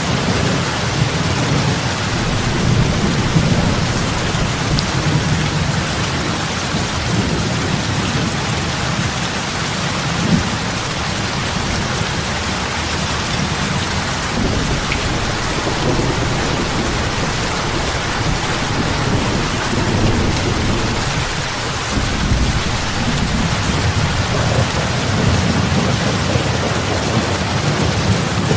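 Heavy rain falling on lake water in a steady dense patter of big drops splashing, with a deep rumble underneath that swells and eases.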